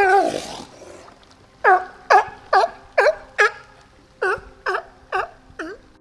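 California sea lion barking: a longer, harsher call at the start, then two runs of short barks, about two a second.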